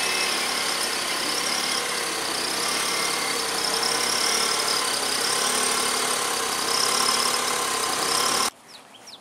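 Smart car engine running as the car reverses slowly, a loud steady sound. It cuts off abruptly about eight and a half seconds in, leaving faint bird chirps.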